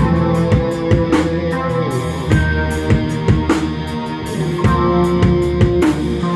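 Live band playing an instrumental passage: drum kit keeping a steady beat under held chords from guitar and bass.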